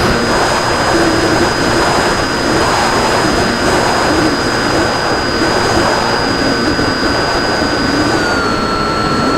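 RC airplane's motor and propeller running at steady cruise throttle, a high steady whine over air rushing past the airframe; the pitch drops a little about 8 seconds in as the throttle is eased.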